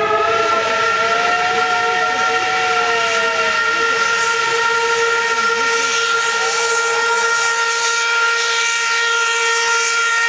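Several steam locomotive whistles blowing at once in a long held chord of different pitches. Steam hiss swells in about halfway through.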